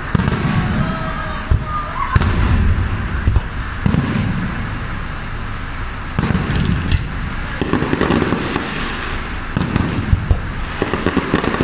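Aerial fireworks shells bursting in rapid succession: a steady run of sharp bangs over a deep rumble, with clusters of louder reports every couple of seconds.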